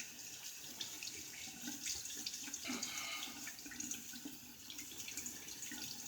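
Water running from a bathroom tap into the sink, with small irregular splashes.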